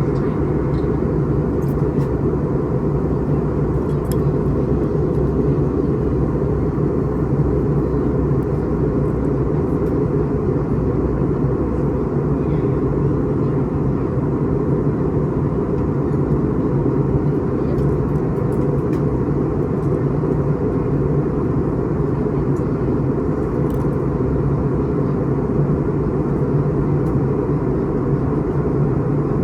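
Steady, even cabin drone of an Airbus A321neo in flight: engine and airflow noise heard from inside the passenger cabin, deep and unchanging, with a few faint light ticks.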